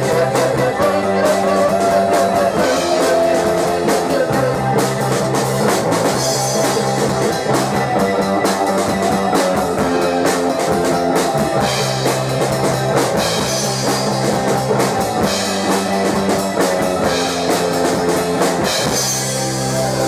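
Rock band playing live: a drum kit with steady cymbal hits under electric guitar, at full volume.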